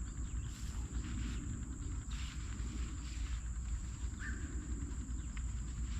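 Insects, crickets by the sound, trilling in one steady, unbroken high tone, over a low rumble with scattered light clicks and rustles.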